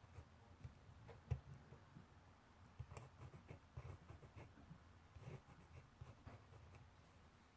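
Faint handwriting on paper: irregular light scratches and small taps of a pen or pencil tip, with a sharper knock about a second and a half in.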